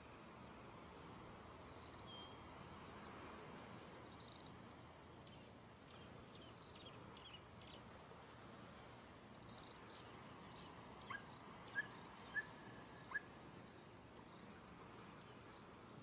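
Faint, steady wash of sea surf with small birds chirping faintly. Four short, sharp chirps stand out about two-thirds of the way in.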